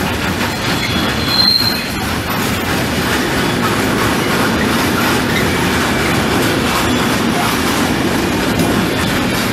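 Freight trains hauled by electric locomotives rolling through a station, a steady rumble of wheels on rails. A brief high-pitched wheel squeal comes about a second and a half in.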